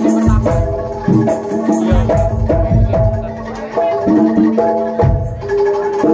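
Live jaranan gamelan music: pitched metallophone notes ringing in a changing melody over regular low drum beats.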